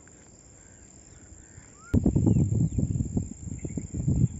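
Faint bird chirps, then about two seconds in a loud, irregular low rumble starts suddenly and keeps going.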